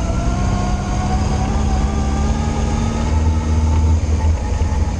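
Yamaha Fazer motorcycle engine running while riding at low speed. Its pitch rises slowly as it pulls, then eases off about four seconds in.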